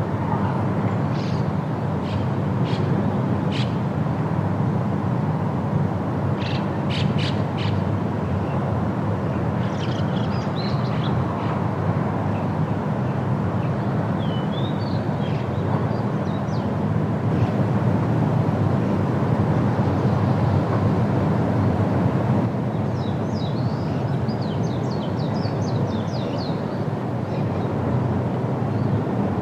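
Steady rush of wind through forest leaves, with scattered short bird chirps and a quick run of calls about a third of the way in and another near the end.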